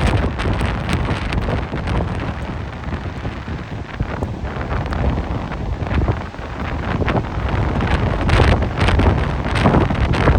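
Gusty wind buffeting the microphone, a heavy low rumble that swells and drops, blowing harder near the end.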